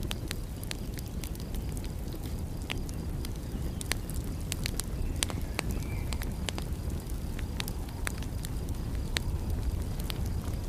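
Wood fire crackling, with irregular sharp pops scattered through it over a steady low rumble.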